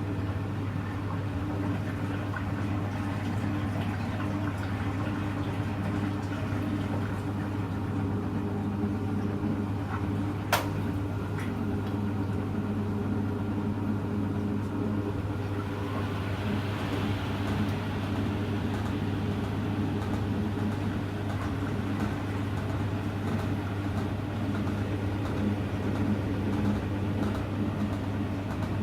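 Hoover Electra front-loading washing machine running with a steady, even motor hum, with a single sharp click about ten seconds in.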